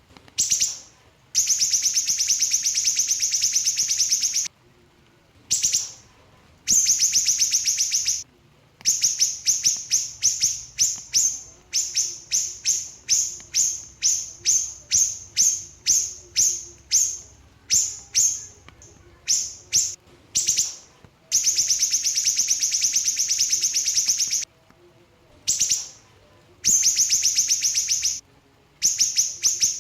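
Small siri-siri bird singing its fast, tight 'speed' song: long unbroken high rattling trills alternating with a run of short rapid bursts, each burst a fraction of a second long.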